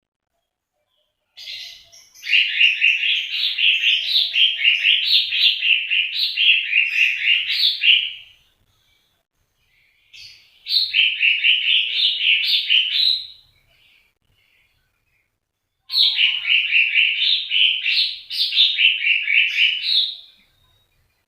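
A small cage songbird singing three bouts of fast, repeated chirping notes. The first starts about a second and a half in and lasts about seven seconds; two shorter bouts of three to four seconds follow, with silent gaps between.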